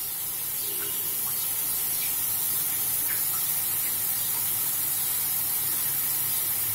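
Onion-and-spice paste (masala) frying in oil in a metal karahi over a gas burner: a steady sizzling hiss that swells slightly over the few seconds.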